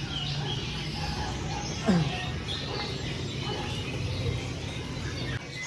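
Many caged songbirds chirping and twittering over a steady low hum of crowd and market background. About two seconds in there is one brief, louder note that falls sharply in pitch.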